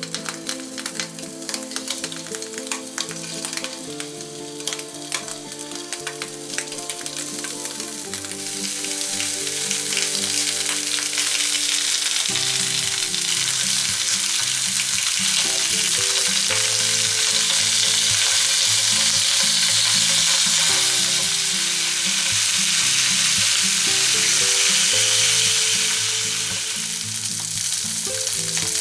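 Pork chipolata sausages frying in olive oil in a pan, sizzling with crackling spits. The sizzle swells and gets louder about a third of the way in. Soft background music plays underneath.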